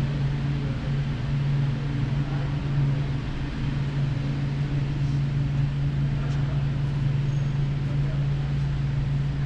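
A steady low mechanical hum with no change in level, like a building's ventilation running.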